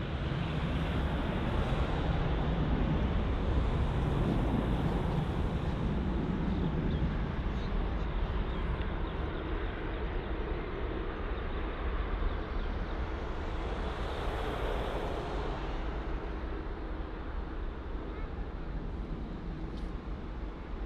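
Airbus A380 jet airliner on its landing approach: a broad engine roar that is loudest in the first few seconds as it passes, then slowly fades.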